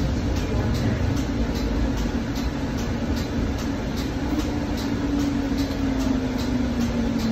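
Passenger train running, heard from inside the rail car: a steady rumble with a motor hum that drops slightly in pitch over the second half, and faint regular ticking a couple of times a second.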